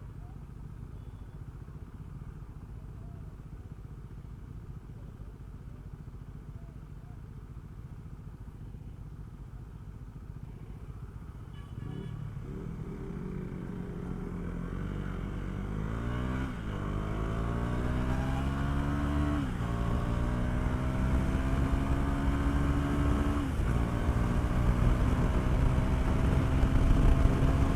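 KTM Duke 390's single-cylinder engine running steadily at low revs, then accelerating hard from about twelve seconds in. Its pitch rises through the gears, with three upshifts, each a sudden drop in pitch, and the sound grows louder.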